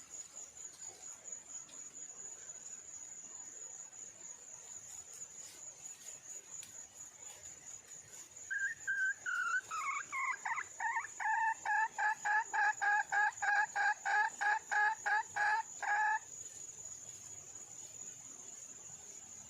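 Junglefowl hen calling: a few opening notes about halfway in, then a quick run of clipped, evenly repeated cackling notes, about three a second, that stop suddenly. A steady high cricket or insect buzz runs underneath throughout.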